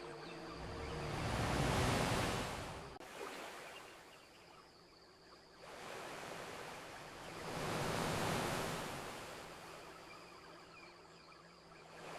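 Ocean surf washing onto a beach in two slow swells, one peaking about two seconds in and one near eight seconds, with faint crackles from a campfire underneath.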